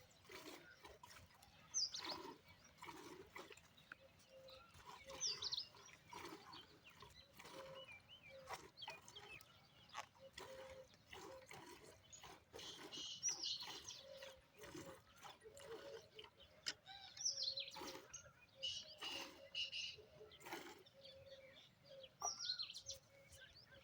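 Birds chirping: short, high, falling calls every few seconds. Faint irregular clicks and knocks sound under them.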